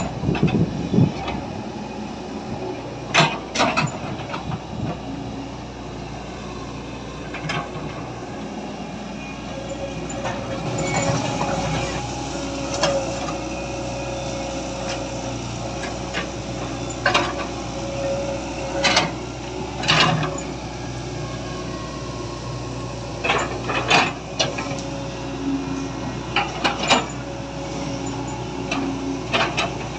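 Toys being handled: sharp clicks and knocks at irregular intervals over a steady mechanical hum.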